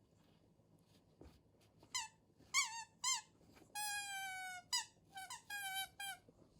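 Shiba Inu whining in a run of high-pitched whimpers that starts about two seconds in, with one longer, slightly falling whine near the middle. It is the anxious whine of a dog unsettled by a sudden power outage.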